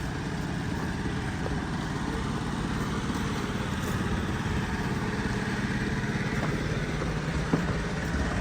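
An engine running steadily at an even speed, with a single short tick about seven and a half seconds in.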